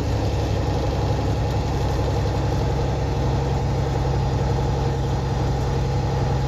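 Semi truck's diesel engine running steadily while driving, a low, even drone heard from inside the cab.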